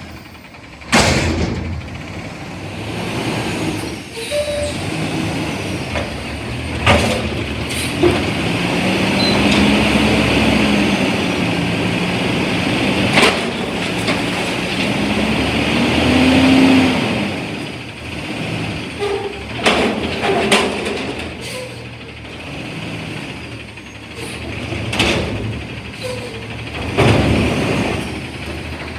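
Front-loader garbage truck at work. Sharp metallic bangs and clunks come scattered through, and in the middle the engine revs up and down for about eight seconds under a hiss.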